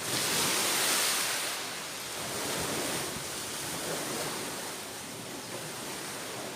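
Ocean surf washing in, mixed with wind. It swells up sharply at the start, eases after about a second and a half, then swells again more gently.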